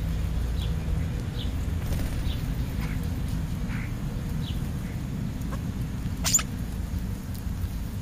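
Starlings and sparrows feeding at a food pile, giving faint short high chirps about once a second over a steady low rumble. A single sharp click comes about six seconds in.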